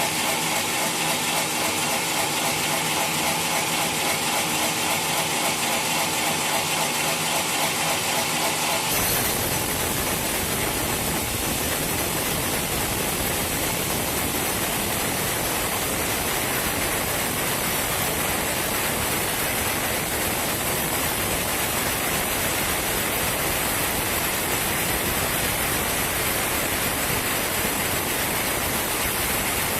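Sawmill machinery running steadily, a hum with a hiss above it. About nine seconds in it changes abruptly to a steady, even rushing noise that lasts to the end.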